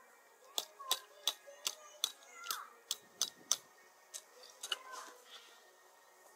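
A run of sharp clicks at about three a second, stopping about three and a half seconds in, with a couple more near the end.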